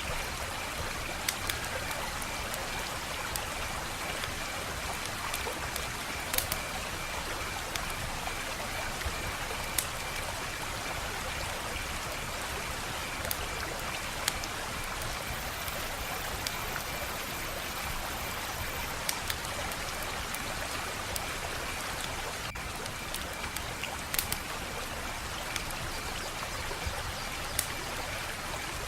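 Wood fire crackling: a steady hiss with irregular sharp pops and snaps, a few louder than the rest. A faint steady high trill runs behind it.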